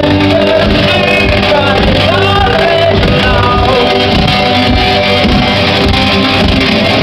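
Live rock band playing in a large concert hall: a male lead vocal sung over a loud, steady band, recorded raw from the crowd. The recording sounds dull, with the treble cut off.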